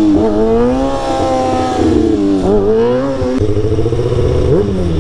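Sport motorcycle engine revving up and down on the throttle, its pitch rising and falling several times. A little over three seconds in it settles into a steadier, held note, with one more quick rev near the end; the rider afterwards speaks of a throttle that gets stuck.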